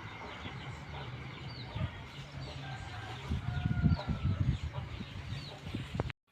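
Birds calling, with short chirps repeating every half second or so, over irregular low rumbles of wind on the microphone. The sound cuts off suddenly near the end.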